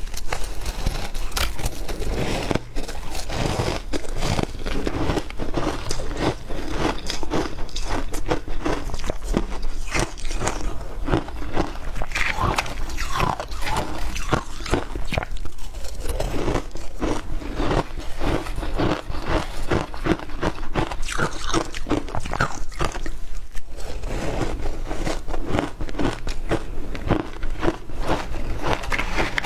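A person biting and chewing ice: a steady run of crisp crunches, several a second.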